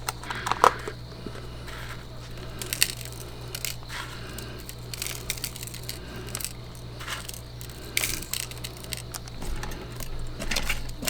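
Scattered light clinks and short rustles, irregular and a second or so apart, over a steady low hum.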